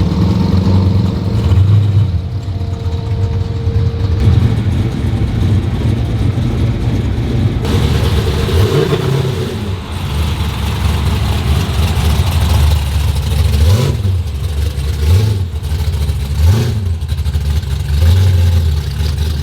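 Car engine rumble with several short revs in the second half.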